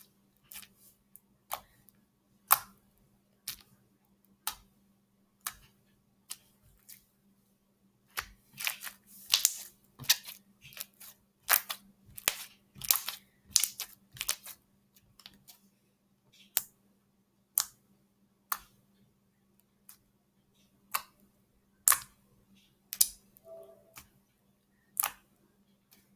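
Homemade slime with plastic beads in it being swirled and worked by hand, making sharp, sticky clicks and pops at an irregular pace, coming thicker and faster in the middle.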